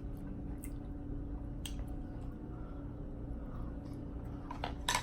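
Someone chewing food, with a few small wet mouth clicks, over a steady low background hum.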